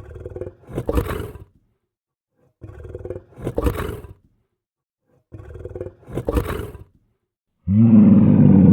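Lion roaring three times, each roar about a second and a half long, swelling to a peak and then stopping. Near the end a loud, steady pitched tone cuts in.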